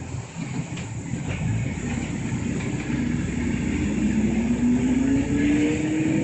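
City bus's engine and drivetrain heard from inside the cabin: a steady low rumble, with a whine that rises steadily in pitch from about halfway in as the bus accelerates.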